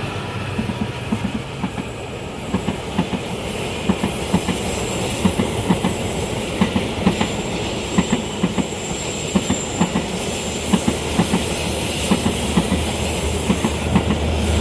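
Long train passing, its wheels clicking over the rail joints in a rapid, uneven rhythm over a steady rumble, with a thin high wheel squeal on the curve for a few seconds in the middle.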